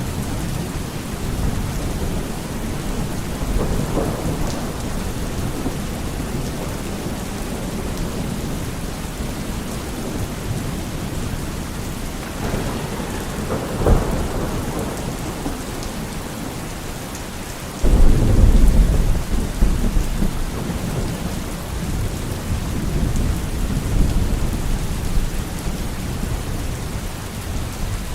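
Steady heavy rain with thunder: a sharp crack about halfway through, then a sudden loud rumble a few seconds later that rolls on and fades.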